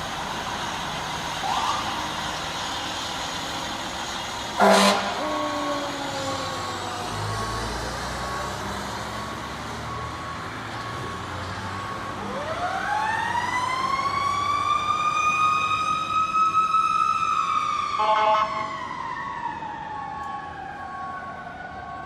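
Fire engine siren winding up steeply about halfway through, holding its high pitch, then slowly winding down, with a short loud horn blast a few seconds in and the truck's engine running underneath.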